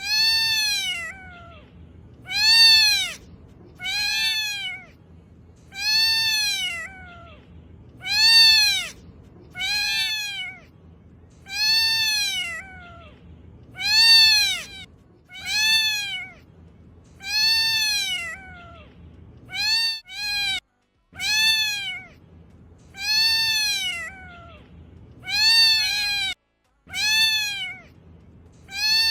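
Domestic cat meowing over and over, about one meow every one and a half to two seconds, each call rising then falling in pitch.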